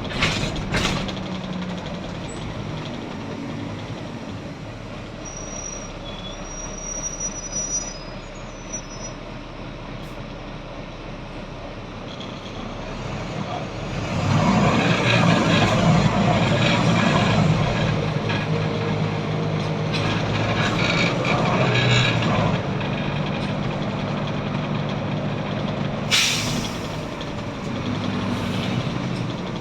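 Volvo B9TL double-decker bus's six-cylinder diesel heard from on board, running steadily, then louder and working harder for about eight seconds from halfway through. Short sharp air hisses from the air brakes come just after the start and again near the end.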